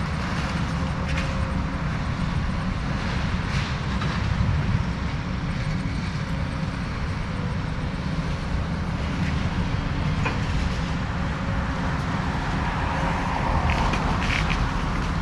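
Diesel excavator engine running steadily with a low rumble, with a few faint knocks scattered through it.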